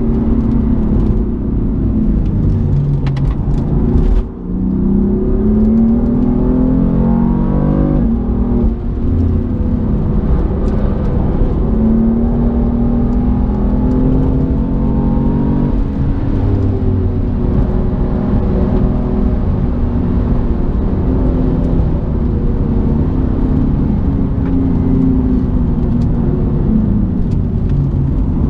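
BMW M4's twin-turbo straight-six heard from inside the cabin, accelerating hard through the gears. Its pitch rises, drops briefly about four seconds in and again near eight seconds at gear changes, climbs once more, then falls away after about sixteen seconds and runs steadier.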